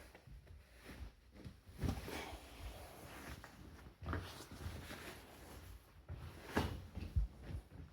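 Laundry being handled: irregular rustling and soft bumps, with two sharper knocks near the end.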